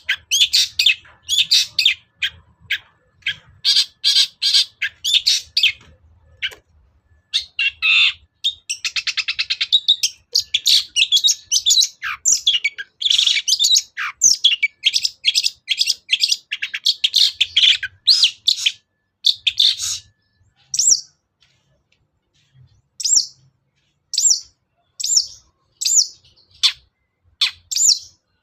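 Long-tailed shrike singing in fast, dense, scratchy chattering phrases full of imitated notes. After a short pause near the end it gives separate short, sharp calls about one a second.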